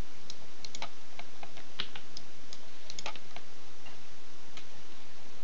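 Irregular clicks of a computer mouse and keyboard, a dozen or so scattered sharp taps, over a steady hiss.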